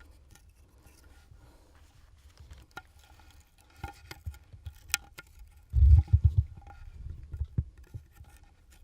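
Small scrapes and clicks of a .25 caliber bullet being worked out of a pine board, with a brief low rumble and a few knocks about six seconds in.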